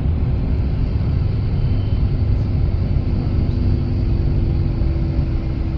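Steady low rumble of engine and road noise from a moving bus, with a faint steady hum from about a second in.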